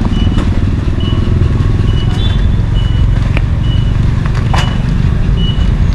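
A steady low motor rumble, with short high beeps repeating about once a second.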